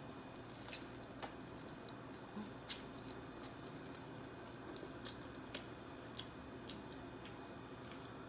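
Eating a crispy-crusted fried chicken by hand: quiet chewing and tearing, with scattered sharp crackles and mouth clicks at irregular moments.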